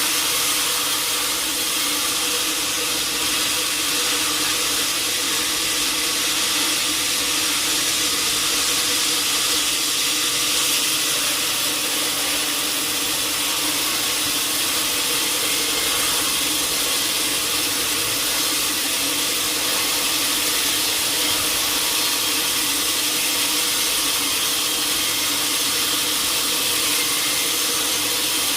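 Sawmill saw machinery running steadily: an even, constant hiss with a steady hum underneath, never changing in level.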